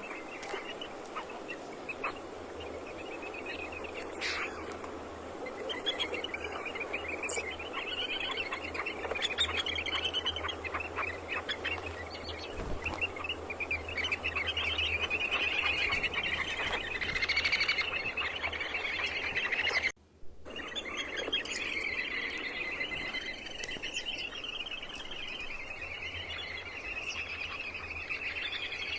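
Birds chirping and trilling in dense, rapid runs, breaking off briefly about two-thirds of the way through.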